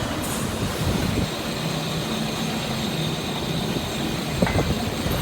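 Steady mechanical running noise with a low hum, and a brief knock near the end.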